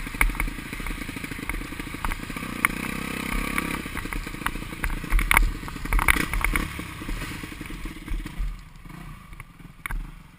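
Motocross bike engine running nearby, with scattered clattering knocks over it; it dies away about eight seconds in.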